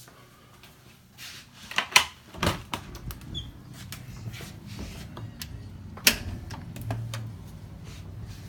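A door being opened and handled: several sharp clicks and knocks, loudest about two seconds in and again about six seconds in, then a steady low hum underneath.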